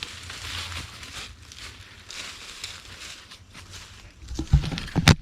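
Footsteps and rustling through dry leaves and brush in woodland, irregular crunching, with heavier thuds and a sharp snap near the end.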